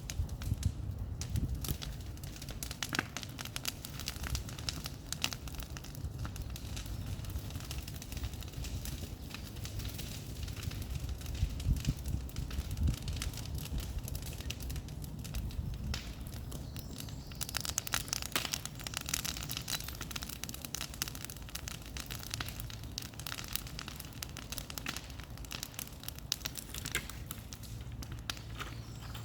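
Bonfire burning, with many irregular sharp crackles and pops of burning wood over a steady low rumble.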